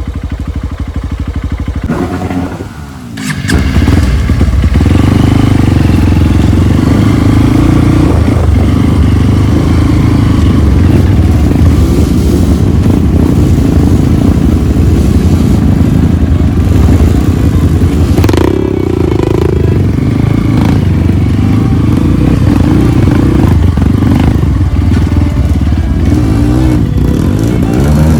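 Trail motorcycle engine working hard: it eases off briefly about three seconds in, then pulls loud and steady under load on an uphill climb.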